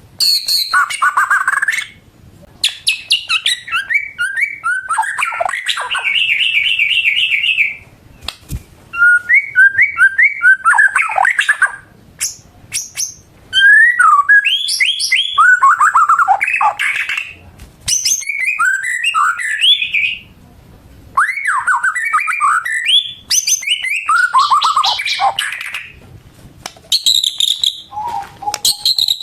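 White-rumped shama (murai batu) in full song: a loud, varied run of clear whistled phrases, rapid trills and sweeping notes, delivered in bursts of a few seconds with short pauses between them.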